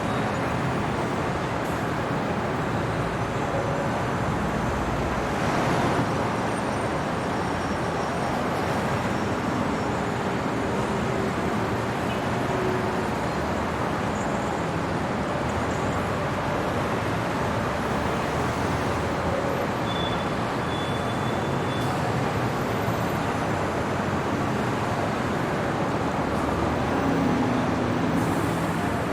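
City traffic at night: a steady wash of road noise from passing vehicles, with a heavier vehicle rumbling by about five seconds in and faint brief tones in the background.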